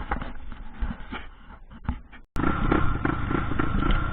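Irregular knocks and clatter, then, after an abrupt cut a little over two seconds in, a trail motorcycle's engine running steadily.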